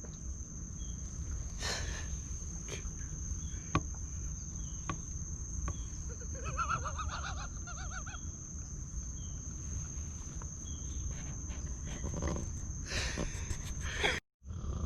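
Crickets trilling as one steady, high-pitched tone over a low rumble, with a few sharp knocks and a faint warbling sound about six to eight seconds in. The audio cuts out briefly near the end.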